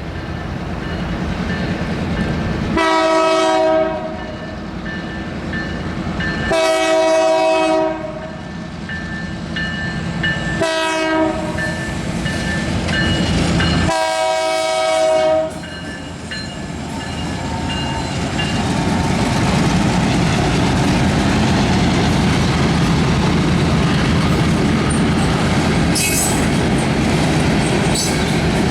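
Train horn sounding the grade-crossing signal, long, long, short, long, as a Long Island Rail Road train nears the crossing. The train then passes with rising wheel and rail noise and a clickety-clack.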